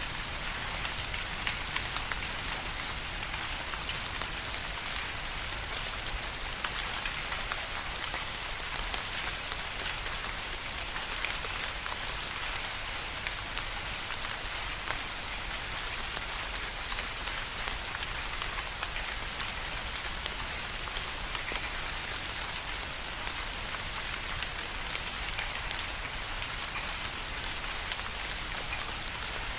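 Steady rain falling on a surface, an even hiss with many distinct drops pattering through it.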